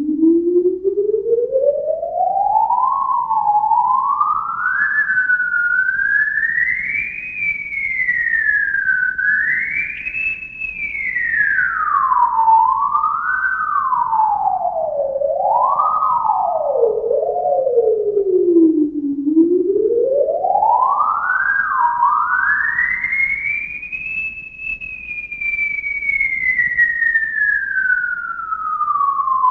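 A single theremin-like electronic tone sliding slowly up and down in pitch. It climbs in stages, swoops down and back up several times, reaches its highest point about two-thirds of the way through, then glides steadily downward.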